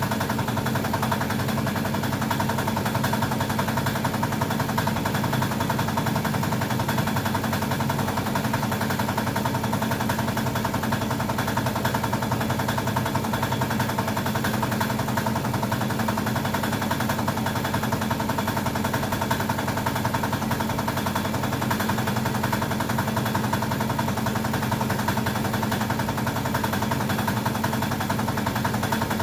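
A small motor running steadily with a fast, even rattle, unchanged throughout.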